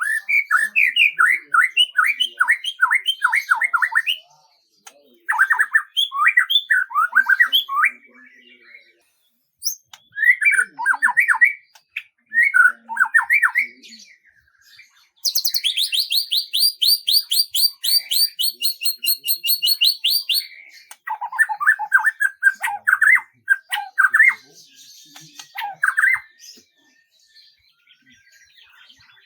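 Songbird singing in separate phrases of quick, repeated downward-slurred notes. In the middle comes one long, very high, rapid trill of about five seconds.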